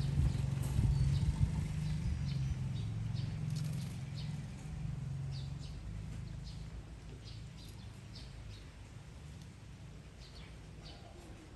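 Baby bird chirping: short, high peeps repeated at irregular intervals. Under them a low rumble, strongest at the start, fades away by about halfway.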